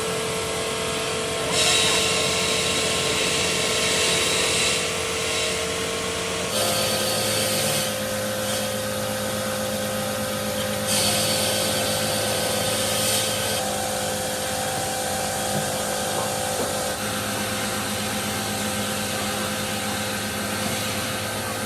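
Stone-working machinery in a marble factory running: a steady motor hum with stretches of high grinding hiss. The hum changes pitch abruptly about six and a half seconds in, and a second stretch of hiss comes around eleven seconds in.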